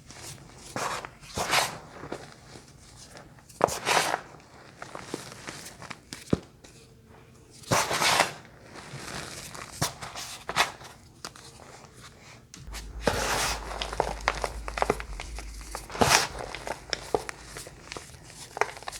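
Crunchy bars being crushed and broken, giving irregular short crunches, some louder than others, with a busier stretch of crunching in the second half.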